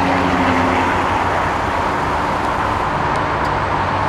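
A car engine humming low and steadily, fading out about a second in, over a steady rushing outdoor traffic noise.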